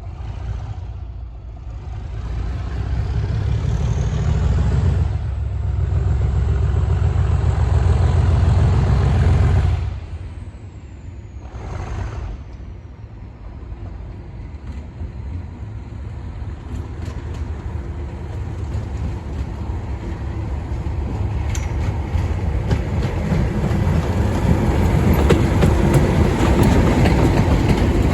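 Class 37 diesel locomotives' English Electric V12 engines running hard under heavy power, with a thin high whistle gliding up and later down. The engine noise drops abruptly about ten seconds in, then builds again as the train runs at speed with rising wheel clatter on the rails.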